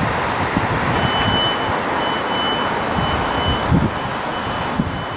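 Southern Class 377 electric multiple unit passing close by: a steady rumble of the train on the rails, with a thin high-pitched tone that comes and goes from about a second in until near the end.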